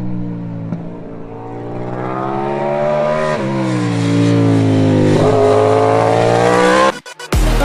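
Racing motorcycle engine accelerating, its pitch climbing, dropping once about three seconds in at a gear change, then climbing again before it cuts off suddenly near the end. Electronic music with a heavy beat starts right after.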